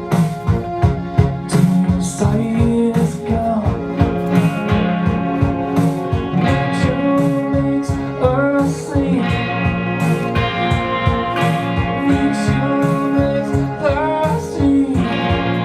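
A song performed live: a man's voice singing over instrumental accompaniment with a steady beat.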